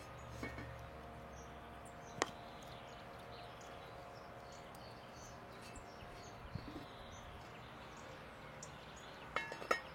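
Quiet outdoor ambience with a single sharp click about two seconds in and a few faint clicks near the end.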